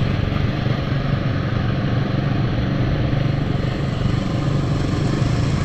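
Royal Enfield motorcycle engine running at a steady speed while riding, with a constant hiss of road and wind noise under it.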